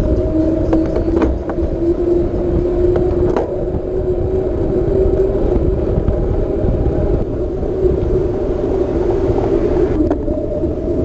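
Mountain bike rolling along a path: a steady, slightly wavering tyre hum over low wind rumble on the camera microphone, with a few short clicks and knocks from bumps.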